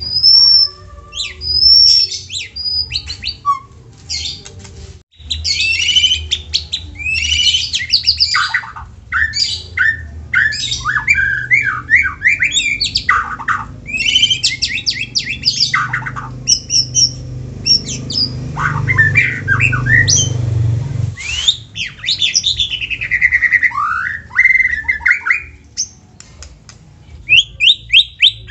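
White-rumped shama singing a loud, varied song of whistles, fast sliding notes and rapid repeated phrases, with only short breaks, over a low background hum.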